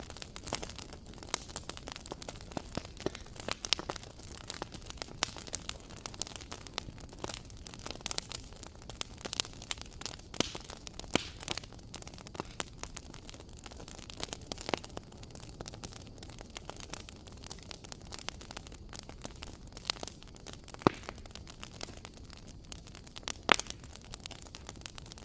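Wood fire crackling: irregular sharp pops and snaps over a low steady hiss, with a couple of louder pops near the end.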